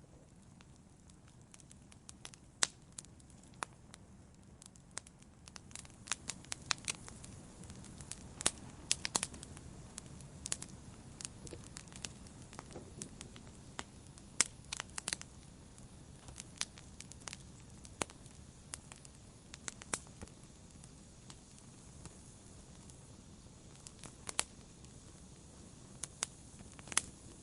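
Wood fire crackling: irregular sharp pops and snaps, sparse at first and more frequent after a few seconds, over a soft low hiss of the burning fire.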